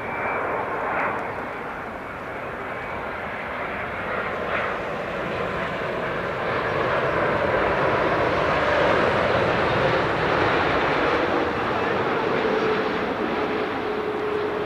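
Jet engines of an All Nippon Airways Boeing 787-9 Dreamliner passing: the jet noise builds to its loudest about two-thirds of the way through, and a steady tone in it falls slightly in pitch near the end.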